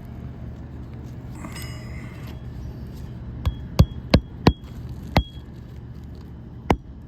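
A hammer driving a roofing nail by hand through an architectural shingle into cement decking: about six sharp, ringing blows, starting about three and a half seconds in, uneven and spaced apart. A brief metallic rattle comes about a second and a half in.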